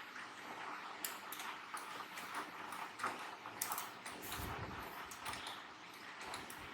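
Scattered light clicks and taps of small parts and tools being handled on a workbench, with a duller thump about four and a half seconds in.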